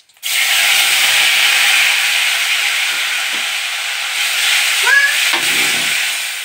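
Ground onion paste dropped into hot oil in a kadai, sizzling loudly. The sizzle starts suddenly about a quarter second in and keeps on steadily as the paste is stirred, with a short rising squeak near five seconds in.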